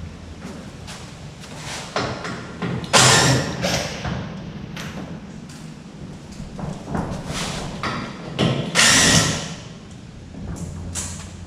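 Knocks, thumps and scraping from body panels being unfastened and lifted off the front clip of a dirt-track race car, with two louder scraping rushes, one about three seconds in and one near nine seconds.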